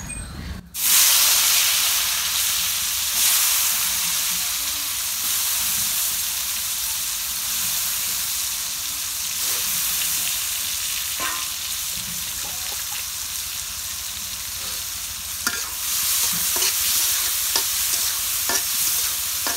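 Soya chunks tipped into hot oil in a blackened karai, starting a loud sizzle less than a second in that keeps going as they fry. In the second half a metal spatula stirring them gives scattered clicks against the pan.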